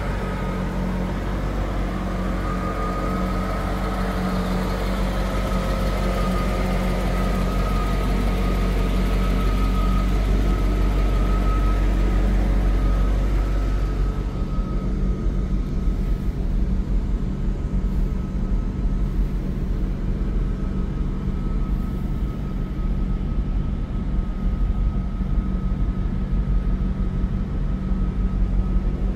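1993 Chevrolet Corvette's V8 idling steadily after a cold start, with a steady thin whine above the low engine note. The engine sound changes about halfway through.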